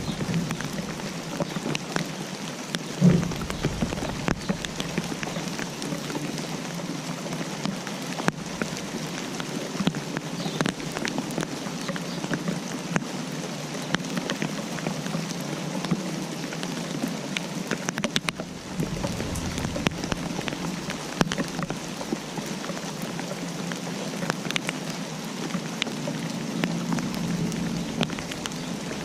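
Rain falling steadily, with many separate drops ticking sharply on a surface. A single louder low thud about three seconds in.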